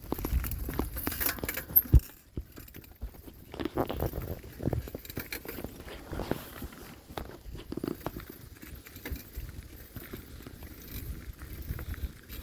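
A bicycle being ridden, with irregular rattling and knocking from the bike and the camera held on it, including one sharp knock about two seconds in.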